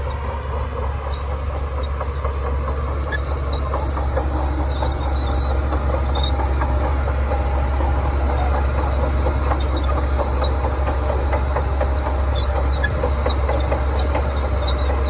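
A Shantui DH17C2 crawler bulldozer's diesel engine runs steadily, with many small clanks and clicks from its steel tracks throughout. It gets slightly louder over the first few seconds.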